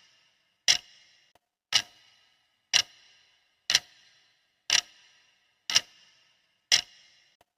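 Clock ticking, one sharp tick a second, each with a brief ringing tail.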